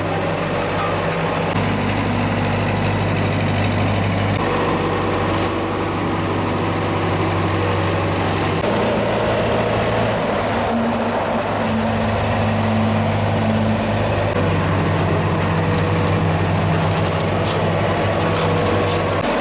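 Engine of road-repair machinery running steadily, its pitch stepping up and down several times.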